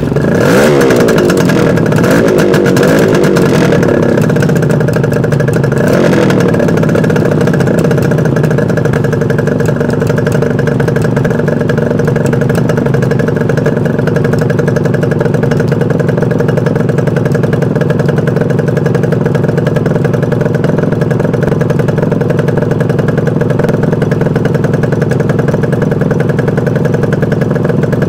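Suzuki GT380's air-cooled three-cylinder two-stroke engine revved in a few throttle blips, another briefly about six seconds in, then idling steadily with its two-stroke exhaust note.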